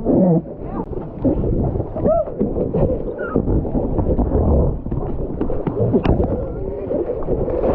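Splashing, churning water with wind buffeting the microphone, and a few short shouted voices.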